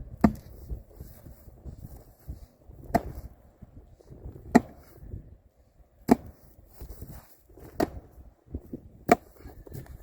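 Manual post pounder slammed down onto a fence post, driving it into the ground: six heavy strikes, most about a second and a half apart.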